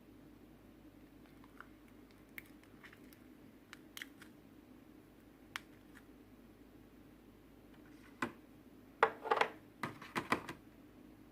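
Slime being squeezed and poked by hand: a few faint sticky clicks, then a cluster of louder squishing, crackling pops near the end.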